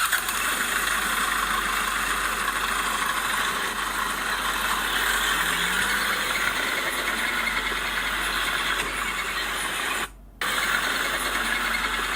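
Old Komatsu D20P bulldozer at work, its engine and steel tracks running steadily, with the sound cutting out briefly about ten seconds in.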